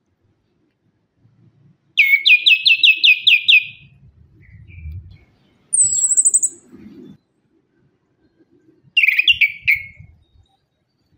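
Orange-headed thrush singing: a quick run of about nine falling whistled notes, then a single thin very high note, then a shorter run of falling notes near the end.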